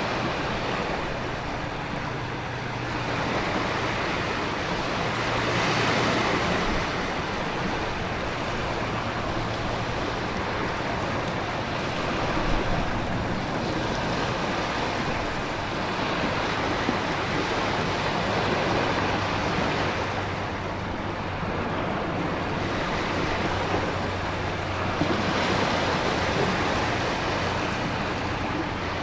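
Storm ambience of heavy rain and wind over crashing ocean waves, a continuous noise that swells and eases every few seconds as the surf surges.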